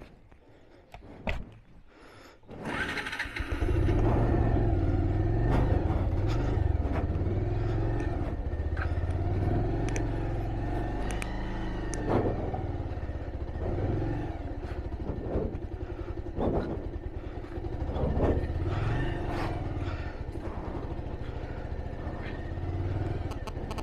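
Motorcycle engine running steadily while being ridden, a low rumble that comes in suddenly about three seconds in after a quieter stretch with a few clicks, with occasional knocks from the ride.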